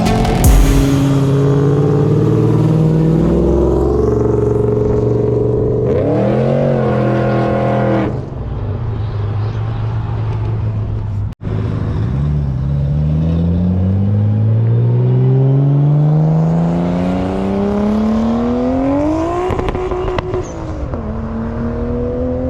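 Car engines: one runs steadily and is blipped up and down a few times. After a sudden break about halfway, a car accelerates, its engine note rising steadily for about seven seconds before dropping back and settling.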